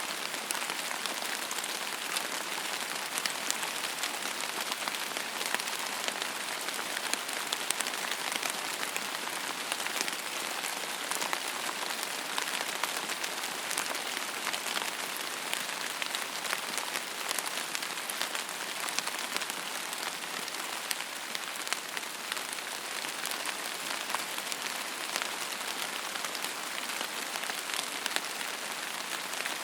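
Steady rain falling on a surface: a dense, even hiss of drops with many small drop ticks, no thunder.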